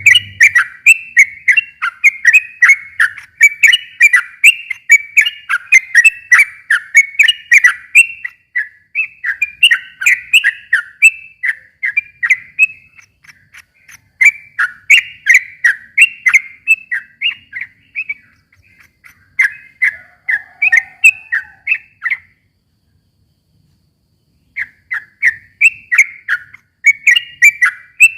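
Yellow-vented bulbul (trucukan) singing long, rapid runs of chattering notes. It breaks off for about two seconds near the end, then starts again.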